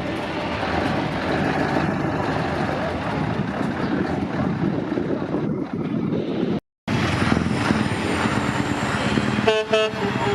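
Heavy truck's diesel engine running as it drives past, steady throughout. The sound drops out completely for a moment about two-thirds of the way through, and a short pitched note sounds near the end.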